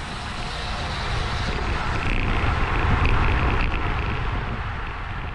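Wind buffeting the microphone of a bicycle riding at race speed, with road rumble underneath; it swells about halfway through and eases off near the end.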